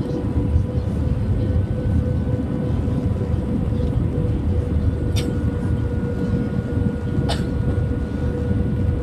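Airbus A321 cabin noise during landing: a steady deep rumble with a constant whine from the engines and airflow. Two short sharp clicks come about five and seven seconds in.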